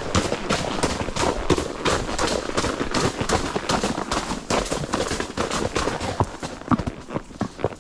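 A ridden horse's hooves striking the trail in a quick, steady rhythm of sharp clip-clops, over a constant noisy rush.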